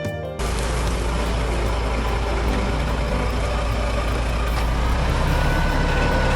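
Music cuts off about half a second in. An engine then runs steadily and loudly, with a strong low drone.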